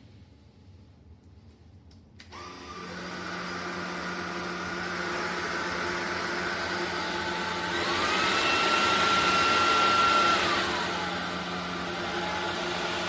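SunSare X11 cordless stick vacuum switching on about two seconds in and running with a steady motor whine. About eight seconds in the whine rises in pitch and grows louder, holds for a couple of seconds, then falls back to its earlier level.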